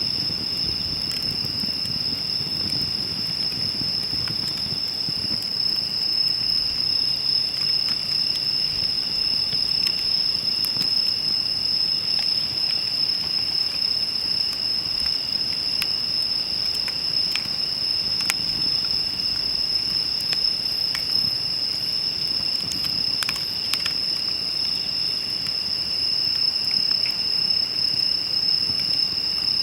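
A steady, high-pitched chorus of crickets, with scattered sharp pops and crackles from a wood campfire.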